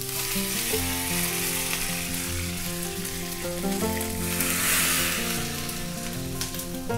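Mustard seeds and cumin sizzling and spluttering in hot ghee in a small tempering ladle: a South Indian tadka. The hiss swells about four seconds in as the tempering is poured into the rasam. Soft background music plays under it.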